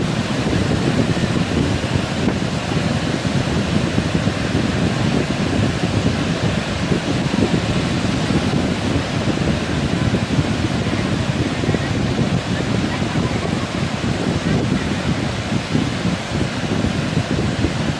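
Wind buffeting the microphone over the steady rush of heavy surf breaking on the beach.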